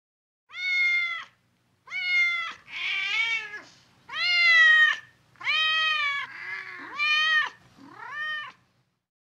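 Domestic cat meowing over and over, about eight drawn-out meows with short gaps between them, a few of them rougher and more strained.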